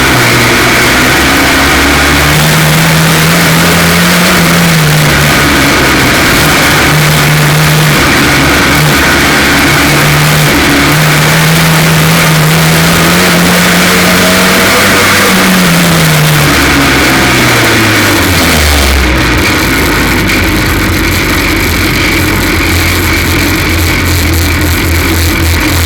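F2 stock car engine at racing revs, its pitch climbing and falling again and again as the car accelerates and lifts for the corners, then dropping away about sixteen to nineteen seconds in to a lower steady note. It is running with a misfire, which the title puts down to a cracked spark plug.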